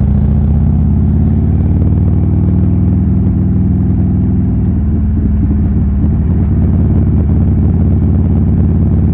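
Buell Lightning XB12S's 1203 cc 45-degree pushrod V-twin, fitted with a D&D aftermarket exhaust, running at steady revs while riding.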